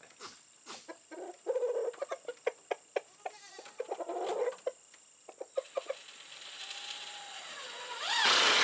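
Chickens clucking, with scattered sharp clicks and taps; a loud rushing noise sets in near the end.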